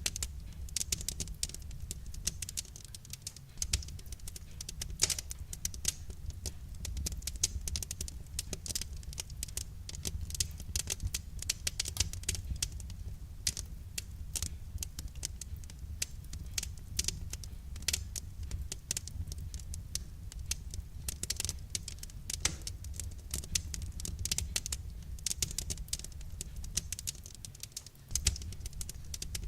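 Wood fire crackling: a dense, irregular run of small pops and snaps over a steady low rumble.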